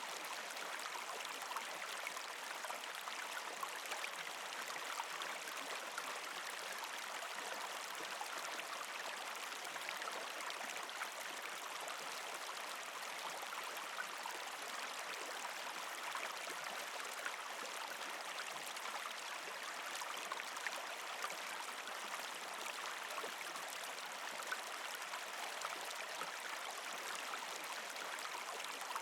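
Creek water flowing and gurgling over rocks under partial ice, a steady rushing with small splashes and trickles throughout.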